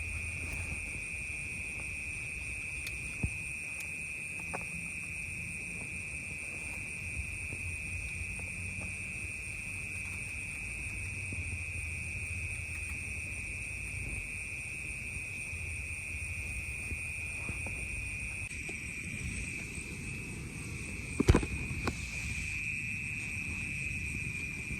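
Steady night chorus of crickets, a continuous high-pitched trill, over a low rumble. A few faint clicks, and one sharp knock about 21 seconds in, the loudest sound.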